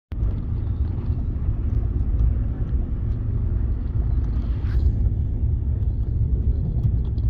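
Express passenger train running on the rails, heard from aboard the moving coach: a steady low rumble with faint clicks, and a brief hiss about four and a half seconds in.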